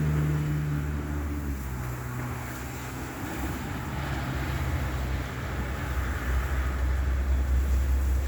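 Large vehicle engine running with a steady low hum, a higher engine tone dropping away in the first second and a half, over a steady hiss.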